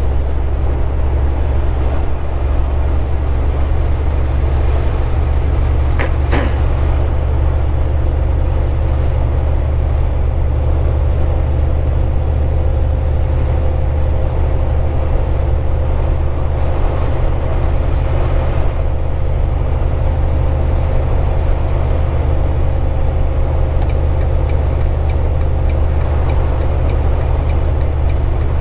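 Steady low drone of a Volvo 780 semi-truck's diesel engine and road noise, heard inside the cab at highway speed, with a sharp click about six seconds in.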